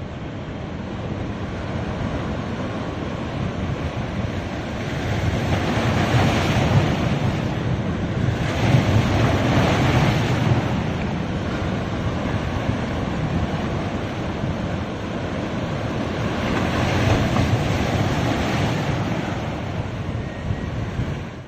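Ocean surf washing on a beach: a steady rush of waves with louder breakers swelling up about six, nine and seventeen seconds in.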